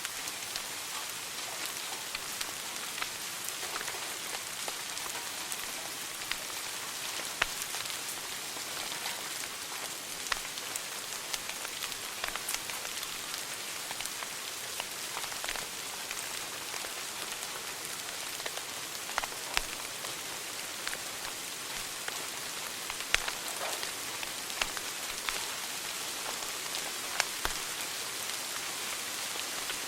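Wood fire burning in a fireplace: a steady hiss with frequent irregular crackles and snaps, several sharper pops standing out.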